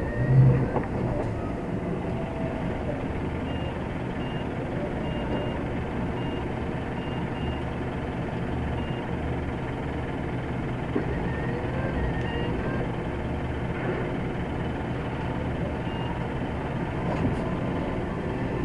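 Steady low running of a heavy truck with short, high reversing-alarm beeps coming at irregular intervals, and a single thump about half a second in.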